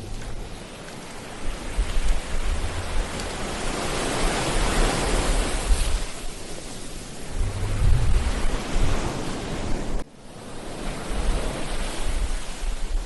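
Ocean surf: waves breaking and washing up the shore, one swell building and fading about four to six seconds in. Low rumbles of wind on the microphone come and go. The sound drops away suddenly about ten seconds in, then builds again.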